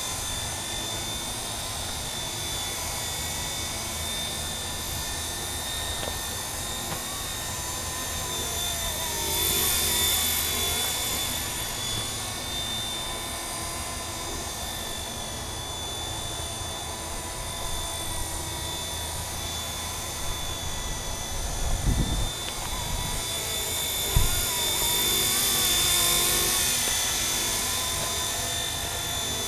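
Radio-controlled MD 500 scale model helicopter in flight, its motor and rotors giving a steady high whine that swells louder twice for a few seconds. A few low thumps come about two-thirds of the way through.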